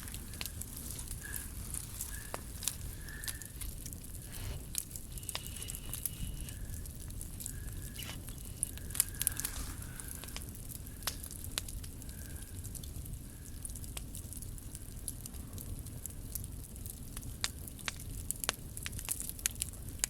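Scrap-wood bonfire burning, with irregular sharp crackles and pops over a steady low rush of flame.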